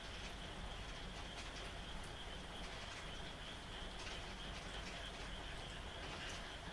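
Light rain falling steadily with scattered drips, under a frog chorus that keeps up a continuous high trilling.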